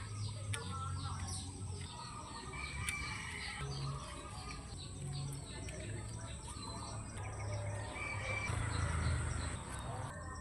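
Birds chirping repeatedly in short calls, over a steady high-pitched hiss.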